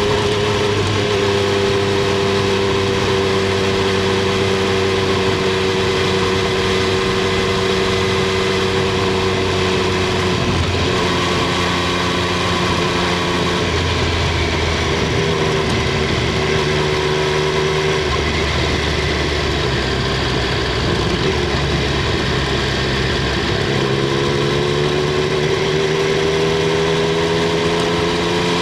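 Triumph Street Triple 765 R's inline three-cylinder engine and exhaust running at a steady, slowly falling pitch, with a few changes in note near the middle, then climbing steadily in pitch over the last few seconds as it accelerates.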